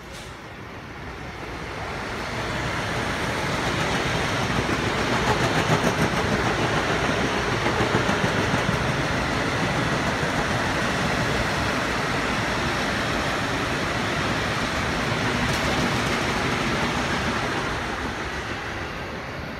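Electric passenger train passing: a steady rush of wheel and rail noise that builds over the first few seconds, holds, and eases off near the end.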